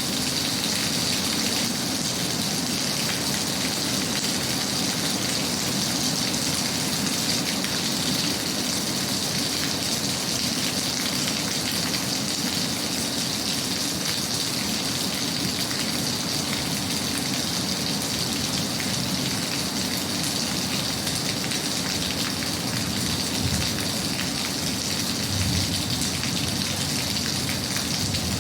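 Steady rain falling on a surface, a dense, even patter of drops with no change in strength.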